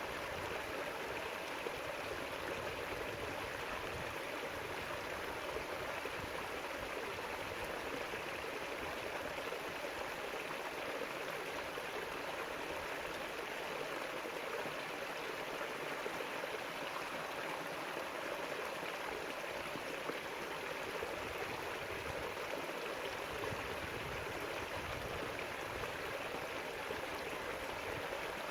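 River water flowing and rushing over rocks, a steady babbling rush with no break.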